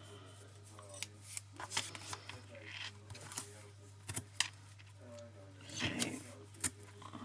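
Card stock and paper pieces being handled and laid down on a craft table: light rustles with scattered small taps and clicks, over a steady low hum.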